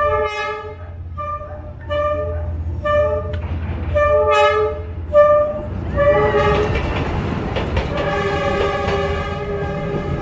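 Train horn sounding a series of short blasts, then from about six seconds in one long held blast over the rumble and clatter of the train passing close by.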